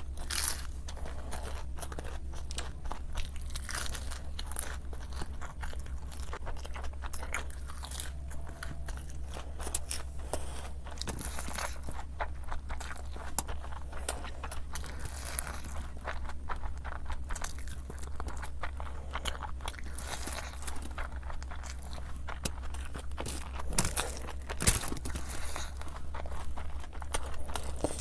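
Crunchy food being bitten and chewed close to the microphone: a dense run of crisp crunches, with a couple of louder bites near the end, over a steady low hum.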